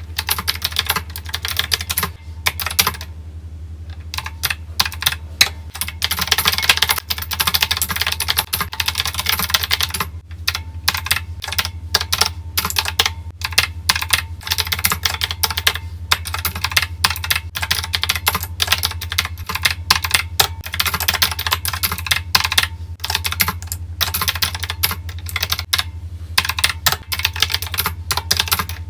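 Fast typing on a keyboard: a dense, irregular run of key clicks with a few short pauses, over a steady low hum.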